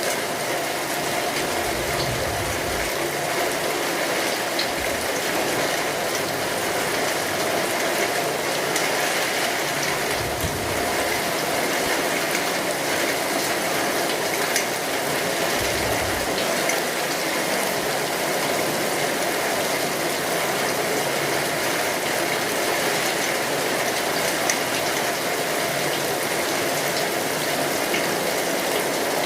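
Steady rainfall with scattered small drip clicks. Three brief low rumbles come and go, about 2, 10 and 16 seconds in.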